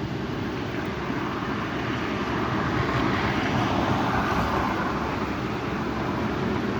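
Strong wind rushing, rising to a louder swell about halfway through and then easing back.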